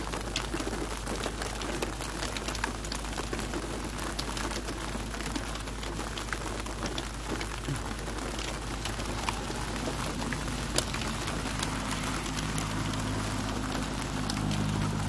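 Hail falling: a dense, irregular stream of sharp ticks as hailstones strike, over a steady wash of noise. A low steady hum comes in over the last few seconds.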